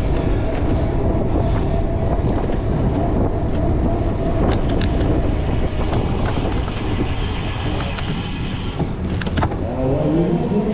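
Cyclocross bike ridden fast over a rough grass-and-dirt course: a steady rumbling of tyres and riding noise with scattered clicks and rattles.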